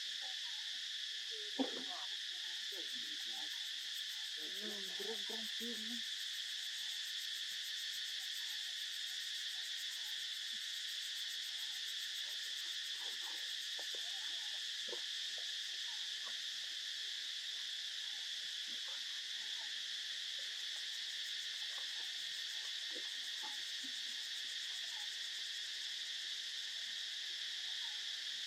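A steady, high-pitched chorus of insects droning without a break. A sharp click comes about a second and a half in, and a few brief faint low sounds follow over the next few seconds.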